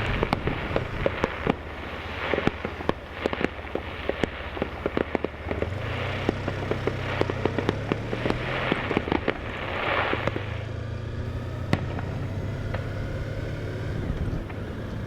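Fireworks going off: a rapid run of sharp cracks and pops with swelling crackle showers, thinning after about eleven seconds to a few scattered bangs.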